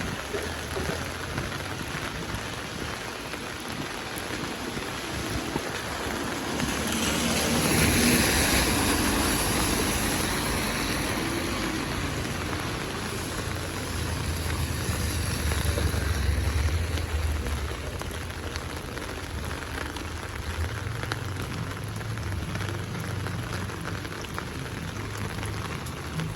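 Steady rain falling on a city street and pavement, a continuous hiss. About seven seconds in, the hiss swells and fades again over a few seconds as a vehicle passes on the wet road, with a low rumble later on.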